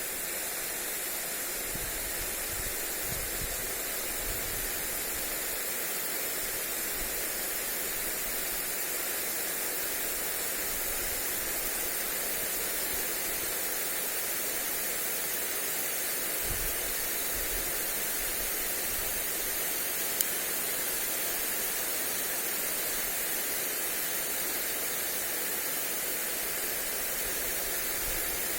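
Lawn sprinkler spraying water onto grass: a steady, even hiss of falling water. Now and then there is a low rumble of wind on the microphone.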